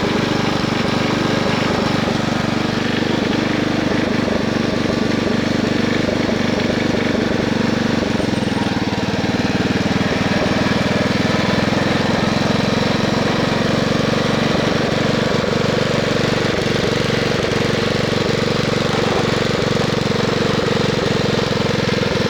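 Wisconsin S8D single-cylinder air-cooled engine of a 1969 Bolens 850 garden tractor running steadily, with a rapid even pulse.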